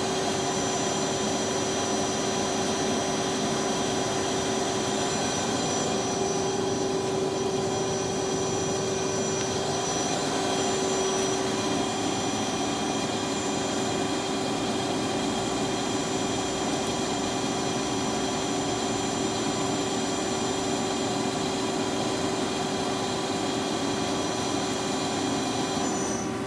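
Lucas 542B-84 horizontal boring mill spindle running at 200 RPM in the medium range of its three-speed gearbox: a steady mechanical whine with several even tones and a hum. Some of the higher tones cut out just before the end.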